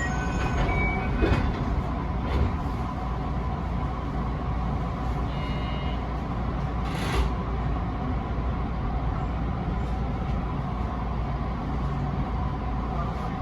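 Electric commuter train running on the track, heard from inside the front of the car: a steady rumble and hiss with a few faint steady tones, and a few short knocks.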